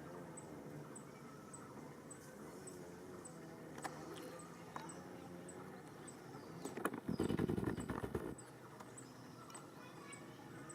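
Faint, overlapping animal calls, with a louder noisy burst lasting just over a second about seven seconds in.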